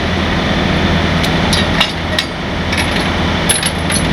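Heavy truck's diesel engine idling steadily, with a series of sharp metallic clinks and knocks, several in quick succession near the end.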